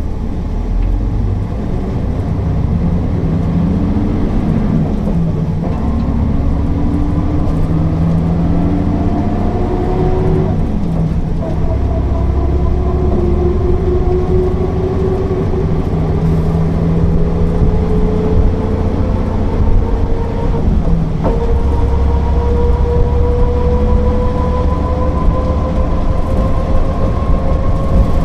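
Mercedes-Benz O408 city bus under way: a steady low rumble with a whine that climbs slowly in pitch as it gathers speed. The pitch drops back twice in the first half before rising steadily again.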